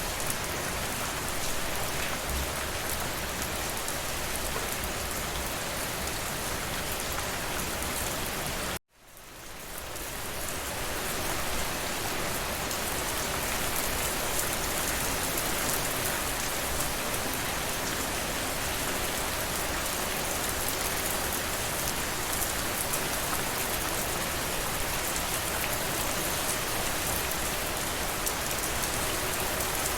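Steady rain falling, an even hiss of many drops. About nine seconds in it cuts out abruptly and fades back up over a couple of seconds.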